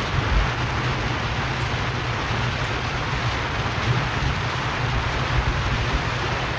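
Steady road noise of a moving car: a low engine and tyre rumble under a constant rushing hiss of tyres and wind.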